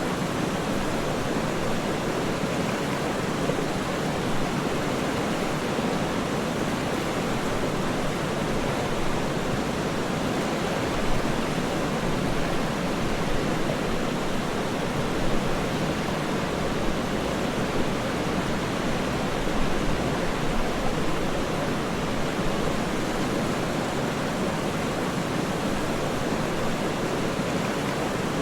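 Waterfall's steady, deep rush of falling water, even and unbroken.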